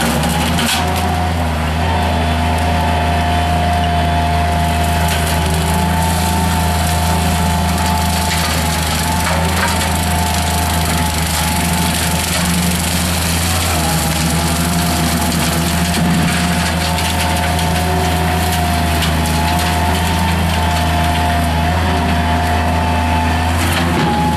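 A mini skid steer loader's engine runs steadily, driving a CID Xtreme 42-inch two-blade hydraulic brush cutter, with a steady high whine over the engine. The blades chop and crunch through brush and woody material.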